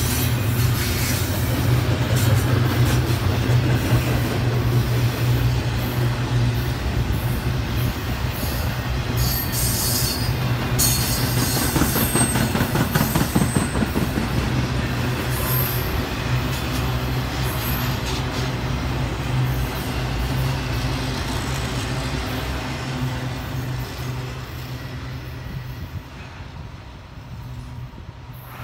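Double-stack intermodal well cars of a freight train rolling past at close range: a steady rumble of steel wheels on the rails, with brief high wheel squeals partway through. It fades away near the end as the last cars go by.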